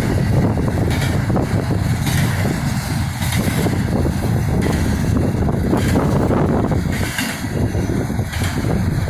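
Steady rush of wind and road noise from a car travelling at highway speed, about 70 mph, with wind buffeting the microphone.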